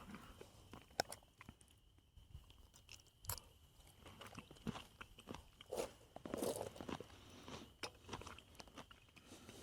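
Faint eating sounds: a fork clicking and scraping in a cooking pan, with chewing between the scattered clicks.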